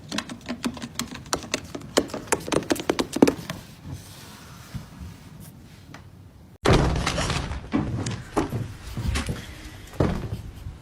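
A rapid run of knocks and taps for about three seconds, then a quieter stretch, then louder thumps and knocks that set in suddenly.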